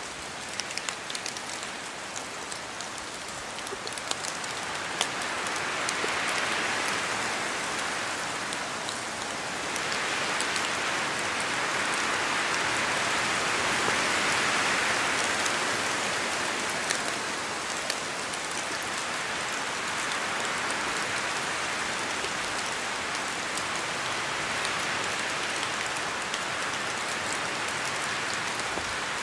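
Steady rain falling through forest trees, with scattered drops ticking in the first few seconds. The hiss swells louder twice, a few seconds in and again through the middle, as wind gusts through the trees.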